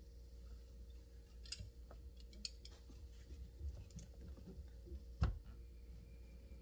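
Faint, scattered small clicks and taps of hand tools and metal shifter parts being handled, with one louder knock about five seconds in.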